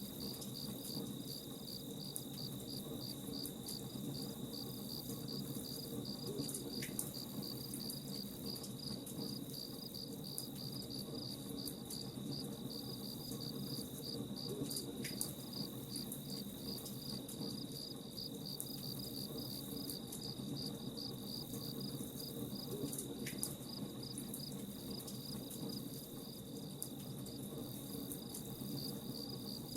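Crickets chirping in a steady, rapid pulsing rhythm over a constant high trill, with the low rush of a campfire and scattered small crackles and pops from the burning wood.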